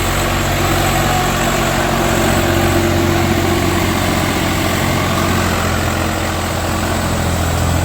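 Heavy diesel engine running steadily near idle, with a slight swell in level partway through.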